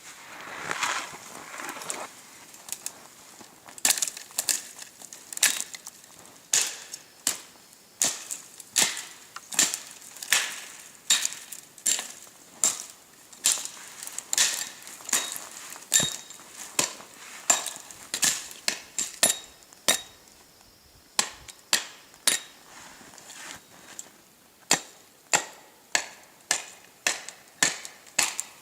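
Repeated hard blows of a striking tool, about one and a half a second, each sharp with a short ring. They go fainter for a few seconds past the middle, then pick up again.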